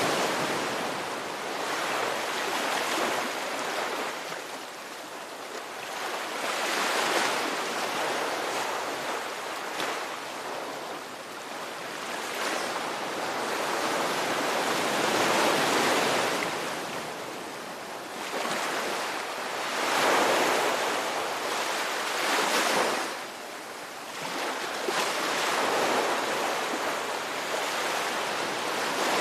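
Ocean waves breaking and washing on a shore, swelling and receding every few seconds.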